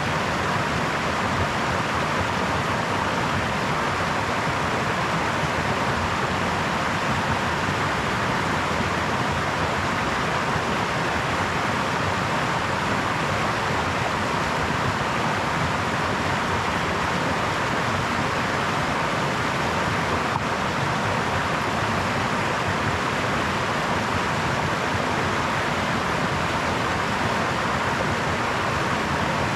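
A brook flowing, a steady, even rush of water with no change in level.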